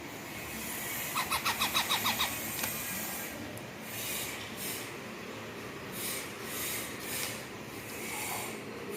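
Baby parrot giving a quick run of about ten high, squeaky chirps about a second in, then faint hissy rustling.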